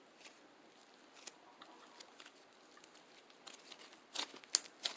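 Faint scattered clicks and light rustling, with a few sharper clicks close together near the end.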